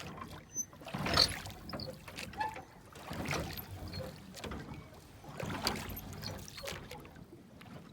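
Water splashing in slow, regular strokes at a small boat, one swish about every two seconds.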